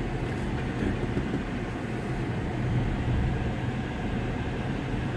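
Steady low rumble of a car driving: engine and road noise with a constant low hum.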